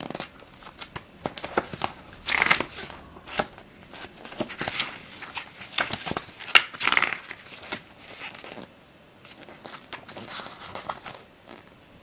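Paper and plastic being handled: rustling and crinkling swishes mixed with scattered small clicks and taps. It quietens in the last few seconds.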